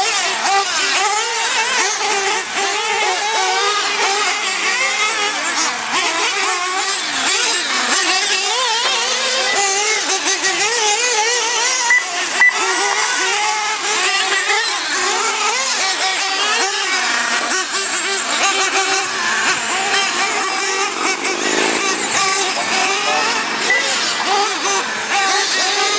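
Several radio-controlled monster trucks and truggies racing, their small motors revving up and down constantly in overlapping whines.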